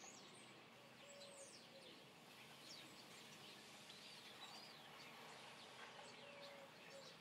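Near silence, with faint bird chirps and short whistles scattered throughout.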